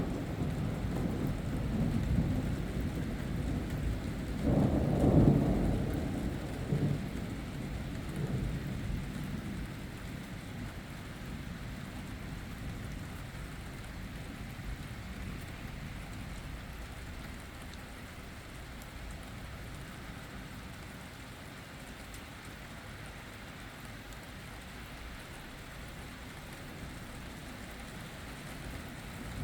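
A roll of thunder rumbling low, loudest about five seconds in, then dying away, over steady rain that continues after the rumble fades.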